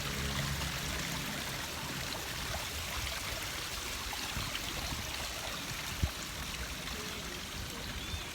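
Steady rushing, water-like outdoor background noise, with a single sharp thump about six seconds in.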